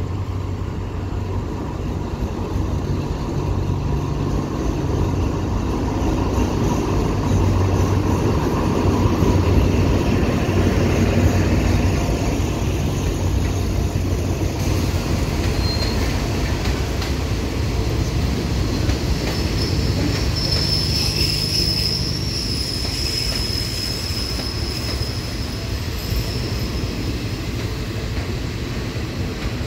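A diesel-hauled passenger train arriving at low speed: the locomotive's engine runs as it passes, loudest around ten seconds in. Then the coaches roll by with wheel noise, and a high-pitched squeal comes from about twenty seconds in as the train slows.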